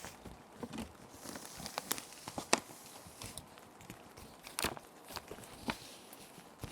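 Plastic sheet protectors being handled, with irregular sharp crinkles and taps and a brief hissing rustle as a sheet slides against the plastic.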